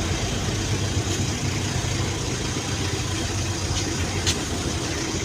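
Steady low engine drone on a ferry's vehicle deck, with a few faint sharp ticks about a second in and near the end.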